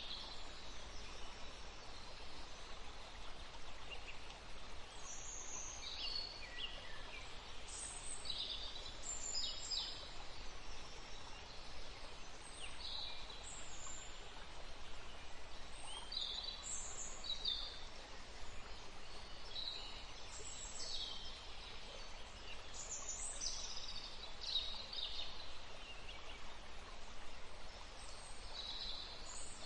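Forest stream running steadily, with songbirds giving many short, high chirps and calls over it.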